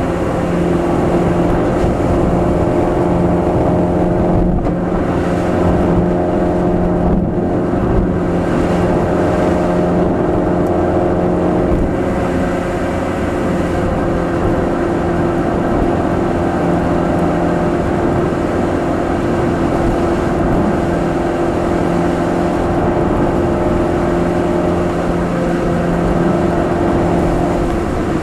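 Nissan March 12SR's four-cylinder engine and Kakimoto aftermarket exhaust droning steadily while cruising, heard from inside the cabin, with two brief dips a few seconds in.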